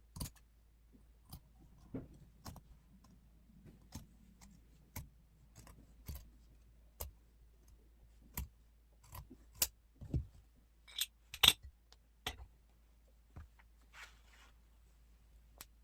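Small sharp clicks and taps, about one a second, from tailoring tools such as scissors being handled on a work table during a trouser alteration, with a short rustling scrape near the end.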